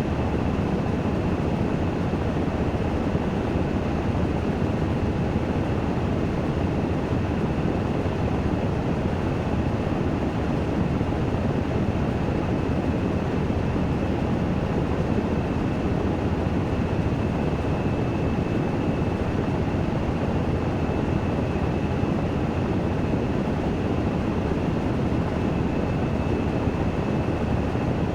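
Washing machine spinning in its spin cycle: a steady whirring rush with a faint, steady high whine over it.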